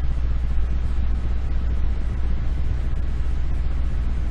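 Steady low hum and rumble of background noise, even throughout, with no distinct sounds in it.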